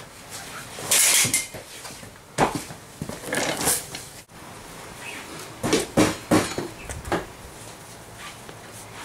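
Hand tools clanking and scraping on metal parts of a dirt bike: a scrape about a second in, then several sharp knocks and clinks.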